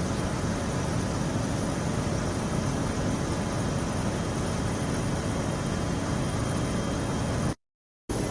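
Aircraft in flight, a steady, even noise strongest in the low end. It cuts out completely for about half a second near the end, then returns unchanged.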